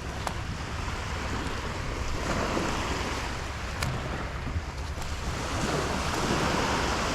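Ocean surf washing onto the beach, swelling and easing, about two and six seconds in, with wind buffeting the microphone.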